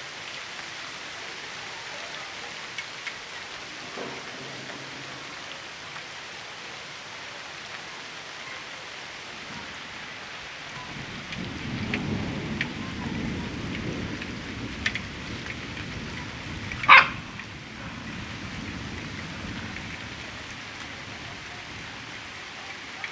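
Steady hiss of rain falling, with a low rumble for a few seconds past the middle. About three quarters of the way through, a dog gives a single short, loud bark.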